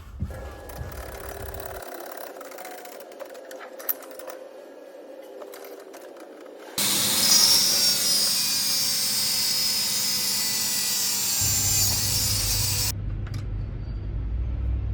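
A power tool runs loudly for about six seconds, starting and stopping abruptly, after a quieter stretch of scattered clicks and taps. Near the end a low, steady rumble takes over.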